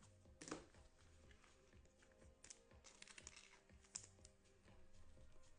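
Faint, irregular clicking and tapping of trading cards being handled and flipped through.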